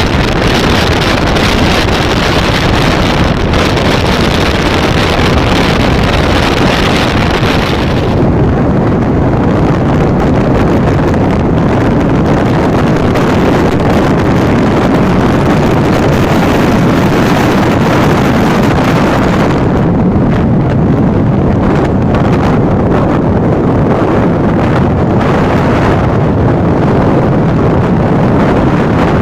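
Loud steady rush of wind buffeting the microphone over the noise of a vehicle moving at highway speed. The high hiss dulls about eight seconds in.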